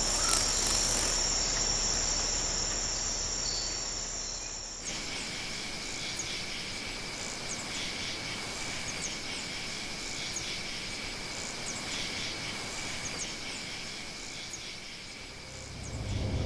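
Insects trilling steadily. About five seconds in, the sound switches abruptly to a different insect chorus with a lower, steady buzz.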